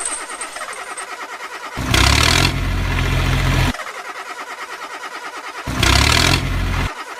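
Tractor engine running, surging loud and deep for a second or two at a time, twice, with a lighter, quicker chugging between the surges.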